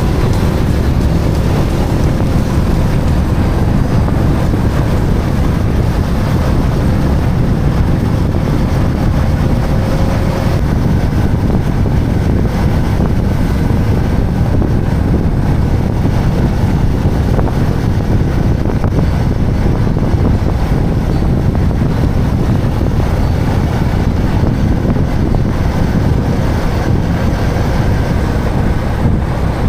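Steady wind rush on the camera microphone of a moving motorcycle, with the engine running underneath.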